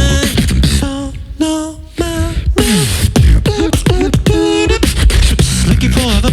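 A cappella beatboxing: vocal drum clicks and a deep vocal bass under sung, gliding melodic lines. The bass and beat thin out about a second in, leaving the melody, and the full beat comes back in around the middle.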